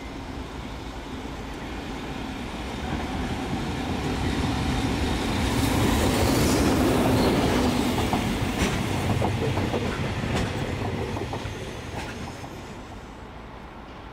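JR Freight EF65 electric locomotive passing on the line. Its running noise swells to a peak about halfway through and fades away, with a few clacks of the wheels over rail joints in the second half.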